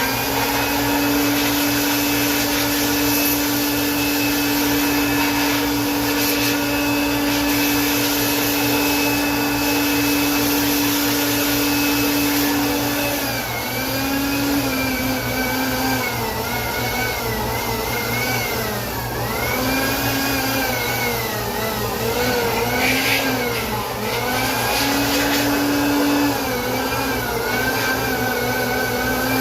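Electric air blower running, a loud steady motor whine with rushing air, used to blow dust out of a refrigerator condenser. About halfway through, the pitch starts dipping and rising again and again as the blower's speed changes.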